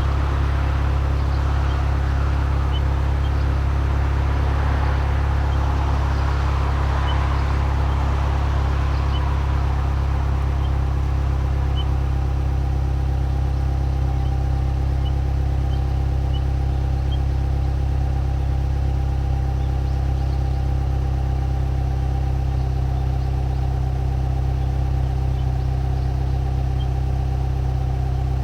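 Subaru Legacy B4 2.0GT's EJ20 turbocharged flat-four idling steadily through an HKS ES Premium aftermarket exhaust, a low, even exhaust note. A hiss sits over it at first and fades away over the first third.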